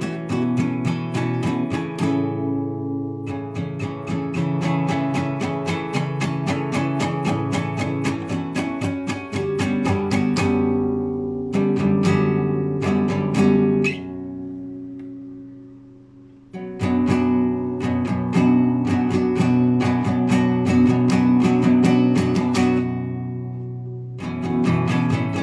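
Classical guitar played solo in fast arpeggios, quick plucked notes running over sustained chords. Just past halfway a chord is left to ring and fade before the playing picks up again, and it eases off briefly once more near the end.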